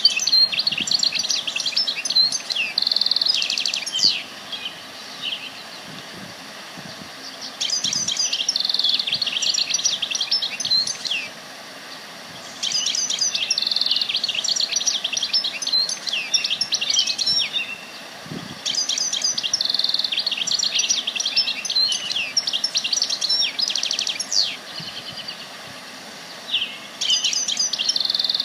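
A songbird singing long, rapid phrases of chirps and trills, each lasting about four seconds, repeated five times with short pauses between them.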